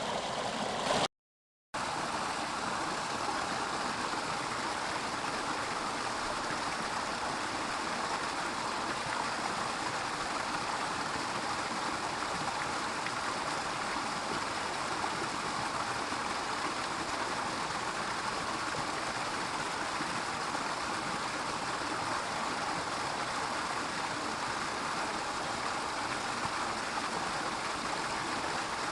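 Mountain stream rushing steadily over rocks, broken by a brief silent gap about a second in.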